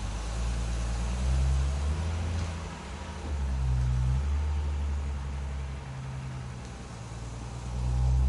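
Datsun 240Z (S30) running on the move, a deep low rumble that swells and fades several times.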